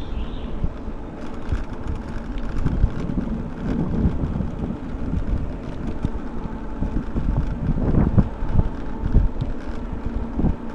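Wind buffeting the microphone over a low, uneven rumble, with scattered knocks and rattles, while a folding e-bike is ridden.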